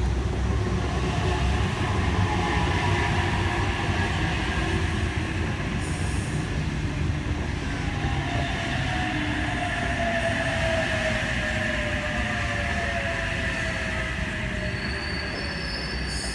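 Electric suburban passenger train pulling into the platform, with a steady rumble and a whine that falls in pitch as it slows to a stop.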